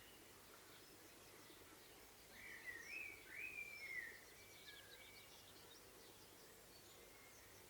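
Dunnock singing one short, fast warbling phrase of squeaky gliding notes, about two seconds long and starting a couple of seconds in, over a faint steady outdoor background hiss.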